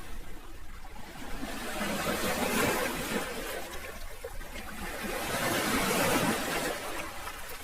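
Sea waves washing in, a rushing water noise that swells and eases, with the strongest surge about six seconds in.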